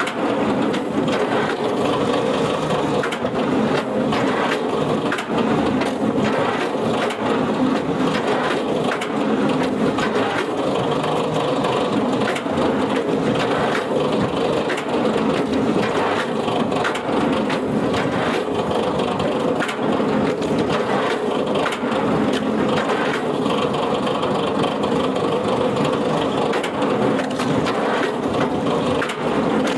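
A wood-processing machine running steadily under load, its engine or hydraulic drive humming while wood is crushed and splits with frequent, irregular cracks and crunches.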